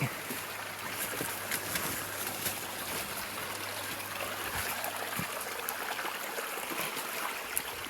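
Water in a mountain creek running with a steady rushing sound.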